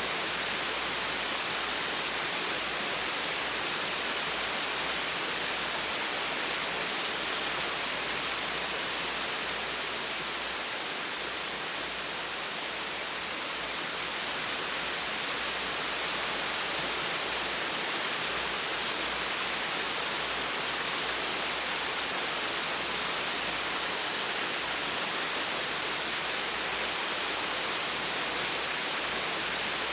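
Small waterfall with water splashing and rushing steadily, a dense even hiss.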